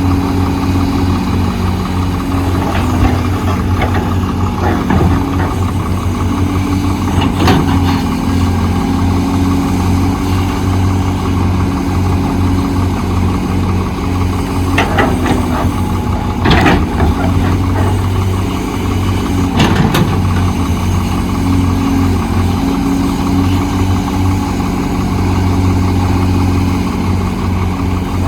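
Heavy diesel engine of construction machinery running steadily, with several sharp knocks and clanks now and then, the loudest near the middle and about two-thirds through.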